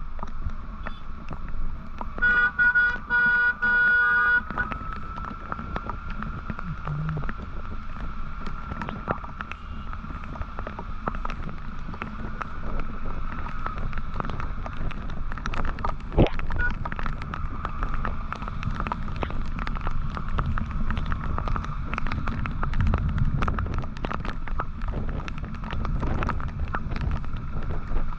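Vehicle horn honking in several short blasts about two seconds in, over the steady rumble and wind noise of a motorcycle riding through city traffic.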